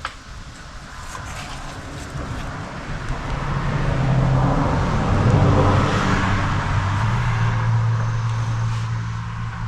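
A motor vehicle going by, growing louder to a peak about halfway through and then easing off, with a low hum that drops slightly in pitch.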